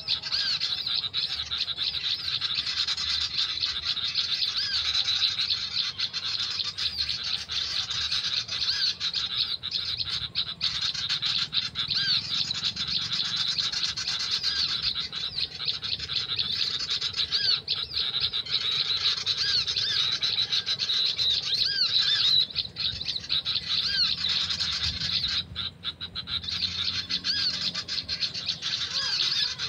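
Small birds chirping rapidly and without pause: dense, high, repeated short notes, with a couple of brief lulls near the end.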